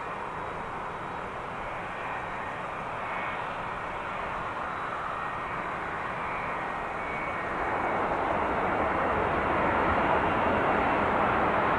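Jet airliner engines running with a steady rush, swelling louder about two-thirds of the way through.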